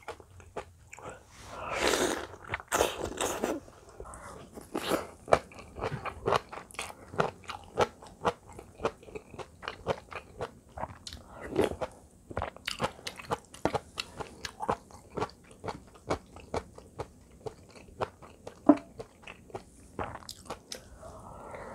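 Close-miked eating sounds: a slurp of soup-soaked cabbage about two seconds in, then chewing with many quick wet clicks and crunches of the fried rice.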